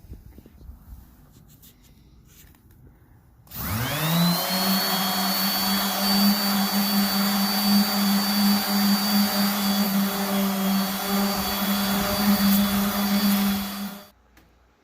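Electric power sander switched on about three and a half seconds in, its motor winding up to speed with a quickly rising hum and then running steadily while sanding the steel axe head, until it is switched off near the end.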